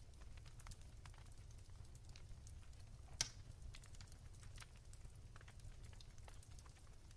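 Soft crackling of a wood fire in a fireplace: scattered small pops and clicks, with one sharper pop about three seconds in, over a low steady hum.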